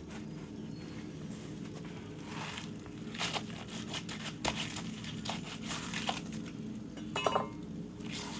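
Scattered light crinkling, rustling and clinking of things being handled, with a steady low hum underneath.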